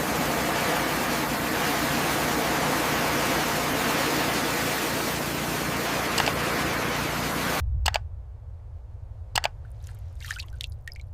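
Loud, steady rushing of water that cuts off suddenly about three-quarters of the way through. After it come a low rumble and a couple of sharp knocks.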